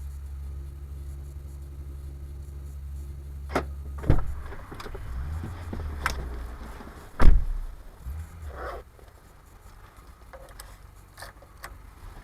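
An engine idling with a steady low hum that stops about four seconds in, followed by several clicks and knocks, the loudest a heavy thump a few seconds later.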